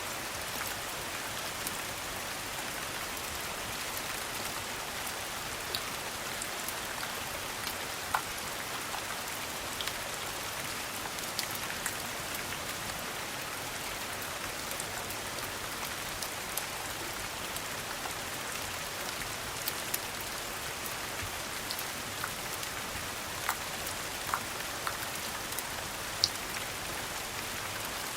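Steady rain falling, an even hiss with scattered sharp ticks throughout, the strongest about eight seconds in and near the end.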